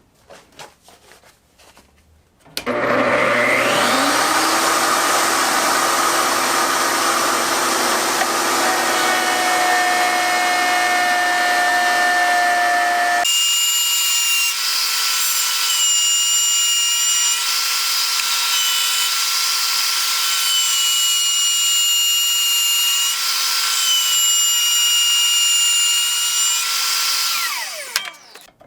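Electric router starting up with a rising whine, running at full speed while flush-trimming the wooden insert plate, then spinning down with a falling whine near the end. About halfway through the sound turns abruptly thinner and higher. The owner calls the router noisy and says it needs attention.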